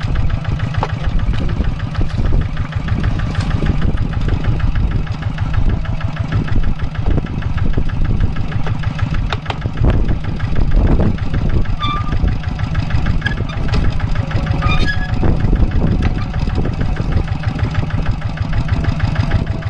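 Single-cylinder diesel engine of a walk-behind Kubota hand tractor running steadily under load while plowing a paddy field, with a fast, even firing beat.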